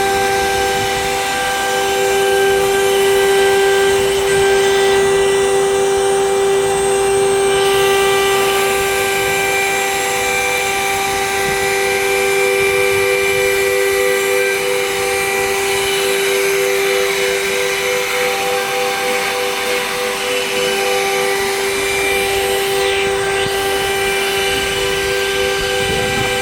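The 3 kW spindle of a 1325 CNC router milling aluminium: a steady, high-pitched whine at a constant pitch over a continuous cutting noise.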